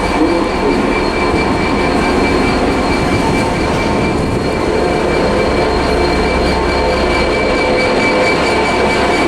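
Freightliner Class 66 diesel locomotive, with its two-stroke V12 engine, hauling a freight train slowly through the station. The train runs with a steady rumble and a thin, steady high squeal on top, and the low rumble grows stronger about six seconds in.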